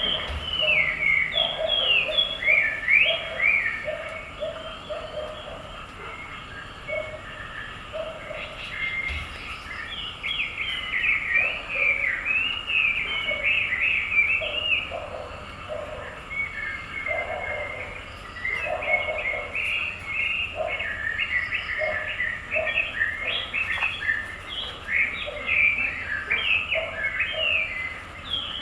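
Small birds chirping and twittering continuously in quick sweeping notes, with a lower short call repeated underneath.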